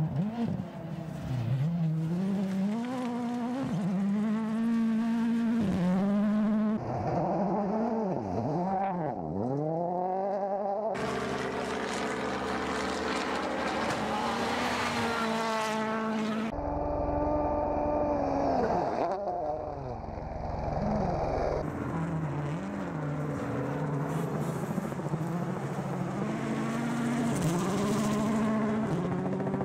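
Rally cars' engines revving hard as they pass, the pitch climbing and dropping again and again through gear changes and lifts, heard in several short shots cut one after another.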